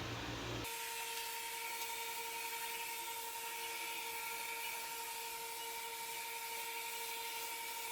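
Xiaomi Mijia Mop P robot vacuum running: a steady, high-pitched motor whine over a hiss. It cuts in abruptly just under a second in.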